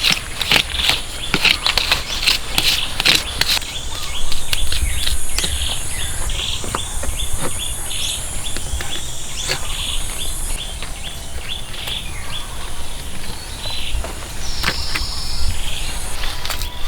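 Birds chirping and insects buzzing, with scattered sharp knocks and clicks that come thickest in the first few seconds.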